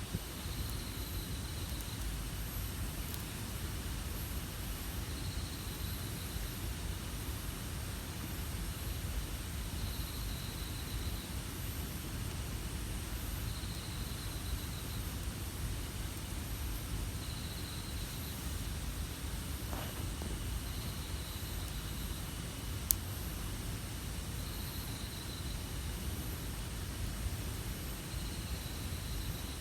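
Campfire burning with a steady low rush of noise and a single sharp pop about twenty-three seconds in. A short high trill repeats roughly every four seconds throughout.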